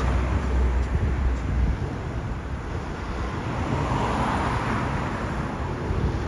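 Deep engine rumble of a large vehicle, which drops away after about two seconds, then road and traffic noise that swells in the middle as another vehicle passes.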